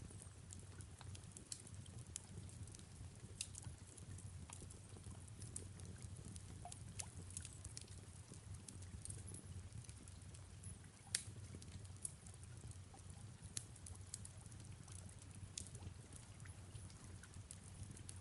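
Fireplace crackling softly: irregular sharp pops and snaps over a steady low rumble, with one louder pop about eleven seconds in. Soft rain falls underneath.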